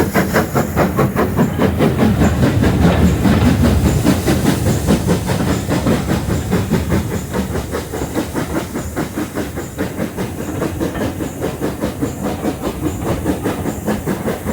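Steam locomotive working up a gradient, its exhaust chuffing in a fast, even beat with steam hiss, heard from the train; the beats ease a little in the second half.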